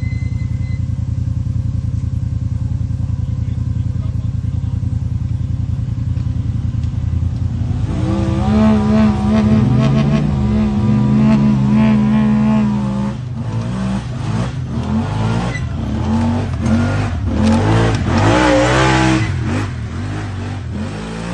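Honda Talon side-by-side's parallel-twin engine idling steadily, then revving up about eight seconds in, its pitch rising and falling repeatedly as it drives.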